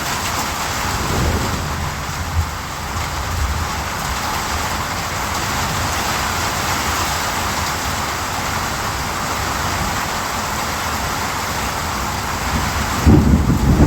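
Steady rain falling, an even hiss with no pauses. Near the end a low rumble of thunder begins.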